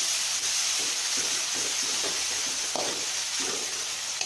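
Chopped onion and tomato sizzling in hot oil in a steel pot, fried soft, with a steel spoon scraping the pot a few times as it is stirred.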